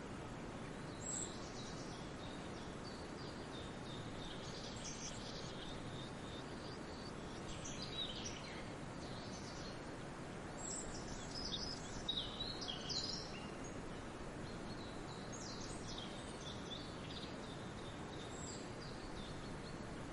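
Songbirds chirping and singing in short scattered phrases over a steady rushing background of forest ambience.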